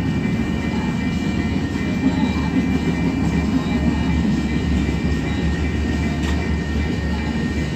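Freight train cars rolling past slowly, a steady rumble of wheels on the rails with a faint steady high tone over it.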